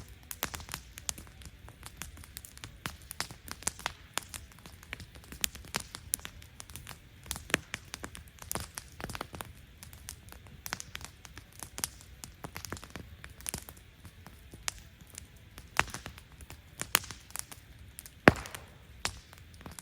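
Wood fire crackling, with irregular sharp pops and snaps over a low hiss. The loudest pop comes near the end.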